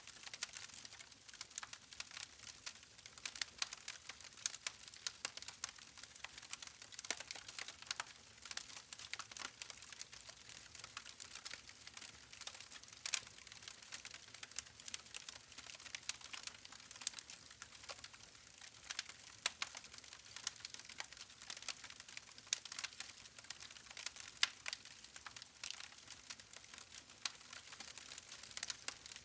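Wood fire crackling: many quick, irregular pops and snaps over a faint steady hiss of burning logs.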